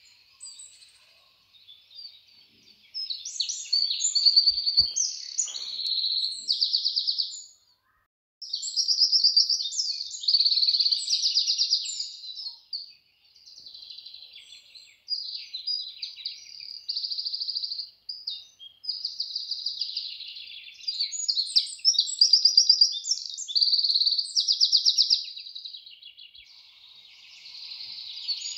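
Birds chirping and calling in repeated high-pitched phrases, broken by short gaps.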